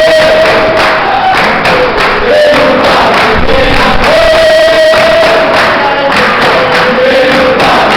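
A group sings a capoeira chorus in long held notes, with a steady beat of percussion strikes underneath.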